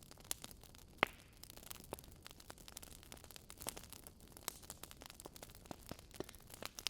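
Barbecue fire burning inside a fireplace, crackling with irregular sharp pops over a faint hiss; the loudest pop comes about a second in.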